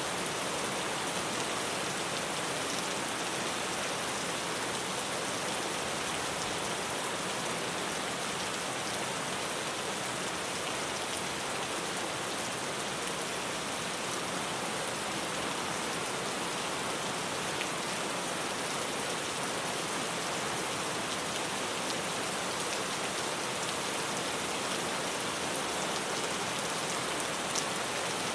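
Rain falling steadily on a tin roof: an even, dense hiss with the odd sharper drip tick standing out.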